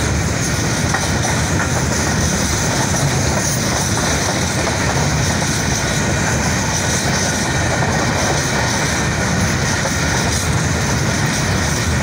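Loaded freight train of open-top wagons rolling past close by: a steady, loud rumble of steel wheels running on the rails.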